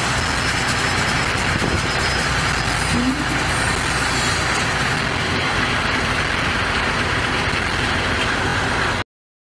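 Heavy off-highway dump truck's diesel engine running steadily as its bed tips up. The sound cuts off abruptly near the end.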